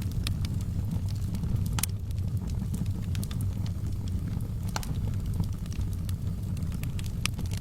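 Wood fire burning in a fireplace: a steady low rumble of the flames with scattered sharp crackles and pops from the logs, a few louder pops standing out.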